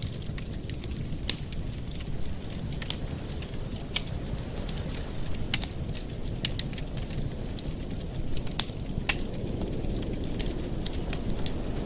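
Campfire burning: a steady low rush of flame with irregular sharp crackles and pops from the burning wood, a few of them louder snaps.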